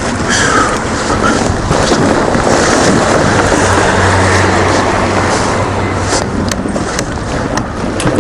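BMW R1200GS boxer-twin engine running under way, with heavy wind rushing over the helmet-mounted microphone while riding.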